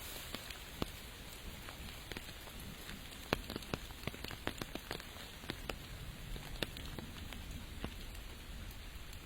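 Steady rain hiss with irregular, sharp drops landing close by, coming thickest between about three and five seconds in.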